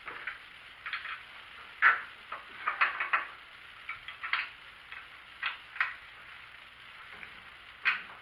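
Small steel T-nuts being handled on a bench: about fifteen irregular light clicks and taps, some in quick clusters.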